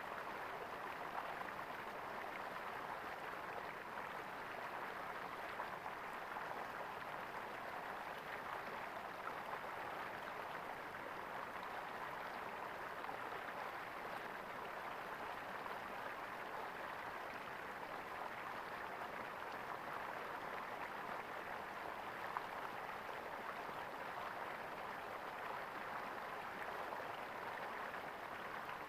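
Flowing stream water gurgling steadily.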